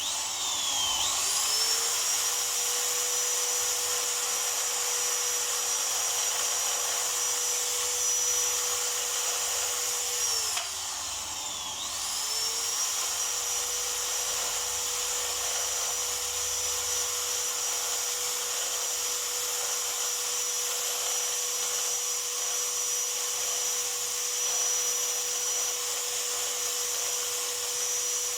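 Small high-speed electric tool motor, drill or grinder type, spinning up to a steady high whine. It winds down about ten seconds in, spins up again a second or so later and keeps running steadily.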